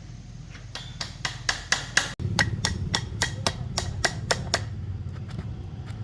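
Rapid hammer taps on metal, about four a second, fading to a few lighter taps near the end, over a steady low hum that gets louder about two seconds in.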